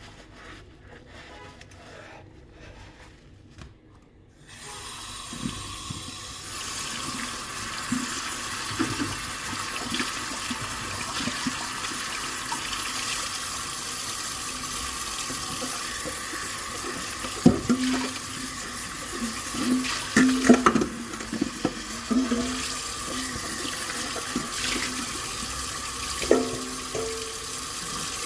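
Kitchen tap turned on about four seconds in and running steadily into the sink, after a few light dish clinks. Dishes knock and clink against each other and the sink several times under the running water, most loudly around the middle and near the end.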